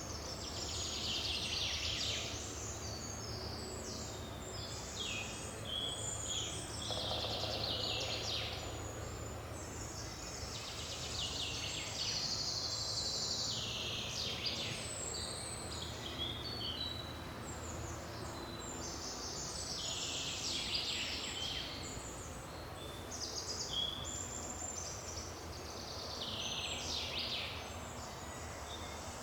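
Forest birdsong: several birds singing short phrases, one after another and sometimes overlapping, over a steady low background hum.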